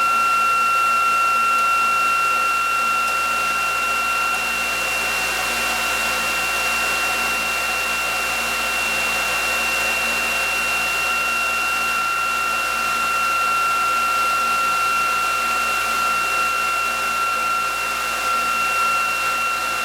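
ReGenX generator test rig running in generator mode, its electric prime mover spinning the generator at constant speed: a steady high whine over an even rushing noise.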